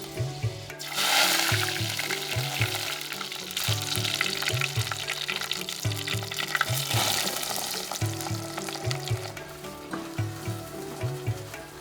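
Food frying in hot oil, the sizzle rising sharply about a second in and swelling again around seven seconds. Background music with a low pulsing beat runs underneath.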